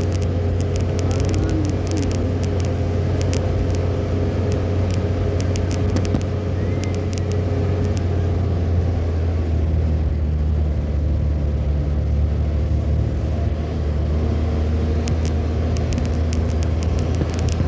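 Vehicle engine and road noise from a moving car, a steady low drone, with scattered sharp ticks heard over it.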